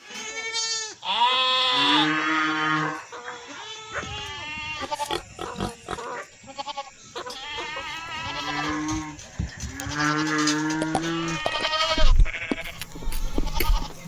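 Farm animals bleating, about six wavering calls in a row with short gaps between them.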